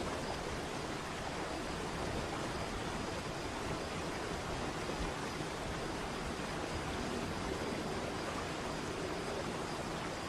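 Waterfall: falling water rushing steadily, with no breaks or changes.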